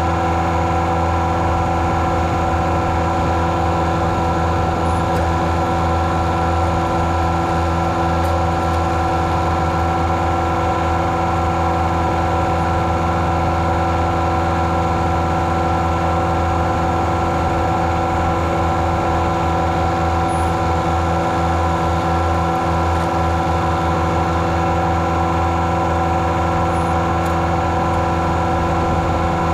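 Engine running at a steady, unchanging speed with a constant hum.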